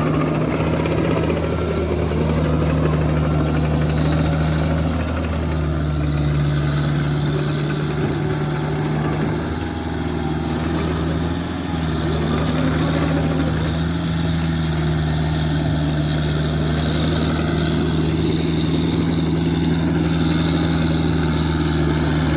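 Excavator engine running steadily while grading dirt, with a slight dip in level about ten and eleven seconds in.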